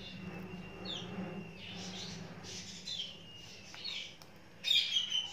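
Small birds chirping in the background: short, high, falling chirps every second or so, with a louder burst of chirping near the end, over a low steady hum.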